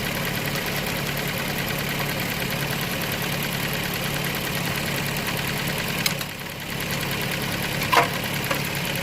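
Toyota 1GR 4.0-litre V6 idling with a steady ticking from an exhaust leak at the left exhaust manifold, which an epoxy-putty patch has failed to seal under the heat. One brief sharp click about eight seconds in.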